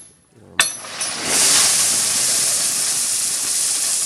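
A single sharp metallic clank with a brief ringing tail, then a loud, steady hiss that starts about a second in and keeps going.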